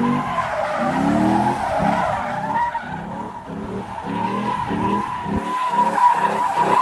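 A car doing a burnout or donuts: tyres squealing steadily while the engine revs rise again and again, coming faster toward the end.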